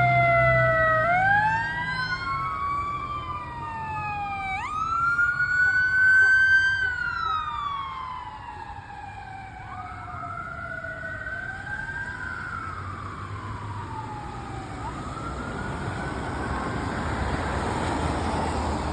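Sirens of responding fire apparatus wailing, two or more sweeping up and down out of step with each other. They fade after about seven seconds, and road traffic noise grows near the end.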